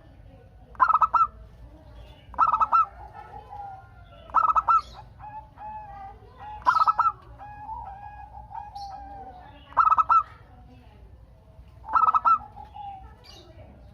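Zebra dove (perkutut) singing its repeated cooing song: six loud, short, rapidly pulsed phrases about two seconds apart, with softer, lower wavering coos between them.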